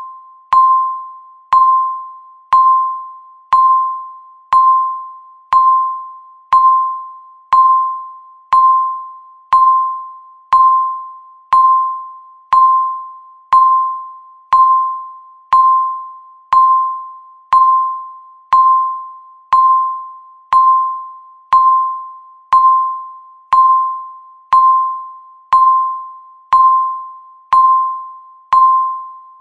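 Countdown timer beeping once a second: a single electronic tone near 1 kHz, each beep sharp at the start and decaying quickly, evenly repeated.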